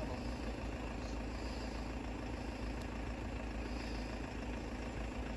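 Steady low hum of idling vehicle engines.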